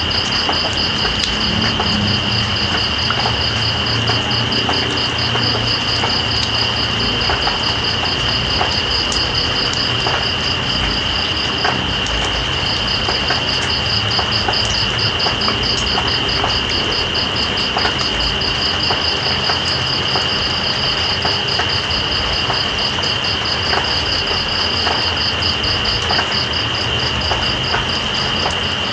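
Steady rain with scattered drips, under night insects: one holds a continuous high trill while another keeps up a fast pulsing trill above it, which pauses briefly about twelve seconds in.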